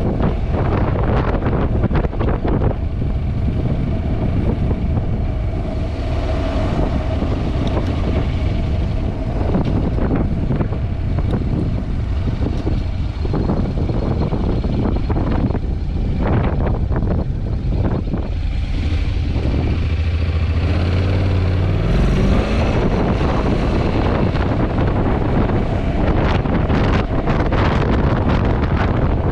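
Heavy wind buffeting on a GoPro microphone on a moving Honda NC750X motorcycle, a loud gusting rumble. Under it the bike's parallel-twin engine is heard, its note rising about three quarters of the way through as it accelerates.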